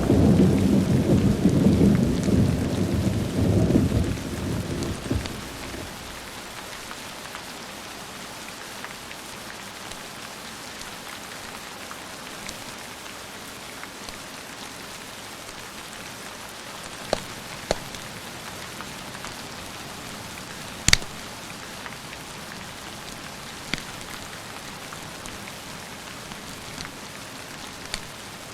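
A roll of thunder rumbles and fades out over the first five seconds, leaving steady rain. A handful of sharp pops from a crackling fireplace come in the second half, the loudest one about three-quarters of the way through.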